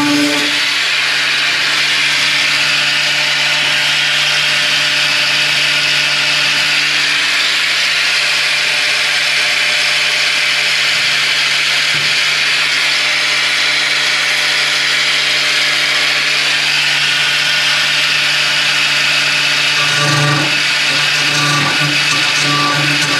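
Corded electric power tool running steadily under load as it cuts through old sheet metal and hinge mounts on a car body, a constant motor whine under a hiss of cutting; near the end the motor pitch wavers in short dips as the load changes.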